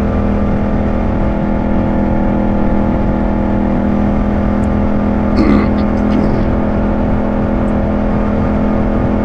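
Yamaha 689 cc parallel-twin motorcycle engine running at a steady cruise, holding one pitch, with wind rumble on the microphone.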